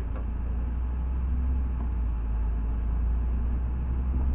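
Steady low rumble of a LiAZ 6213.65 articulated city bus, its engine and running gear heard from inside the passenger cabin.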